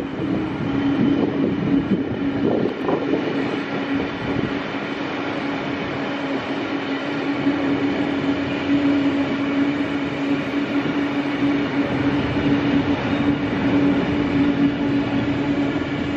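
Sydney Trains silver K set double-deck electric suburban train passing, with wheels running on the rails and a steady hum.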